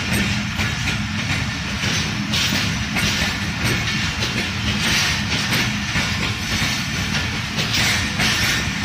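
Passenger train coaches rolling past, wheels clattering over the rail joints with a steady rumble.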